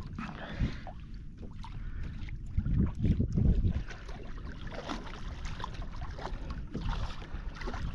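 Wind buffeting the microphone in gusts, the strongest about three seconds in, with small splashes and knocks of water around a kayak.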